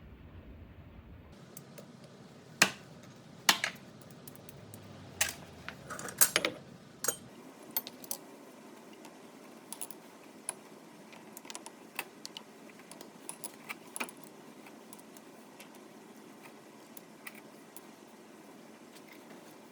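Small metal parts clicking and clinking as they are handled, a cluster of sharp clinks in the first seven seconds and lighter, sparser ticks after.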